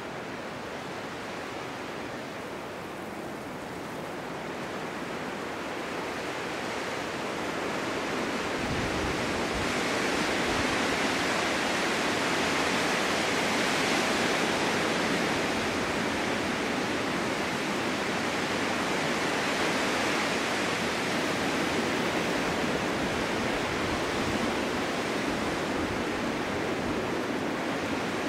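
Snowstorm wind blowing as a steady rushing hiss. It builds over the first third and then stays strong, with a brief low rumble about a third of the way in.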